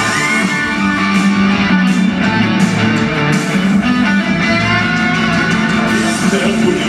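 Live musical-theatre band playing an instrumental passage of a song, with no singing, in a break between sung lines.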